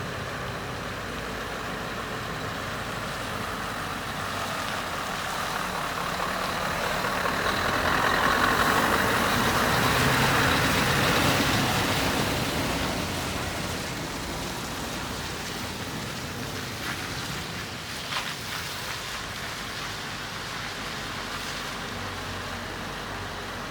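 Heavy truck engine running steadily. Its sound swells for several seconds around the middle and falls back, and there is a short click near the end.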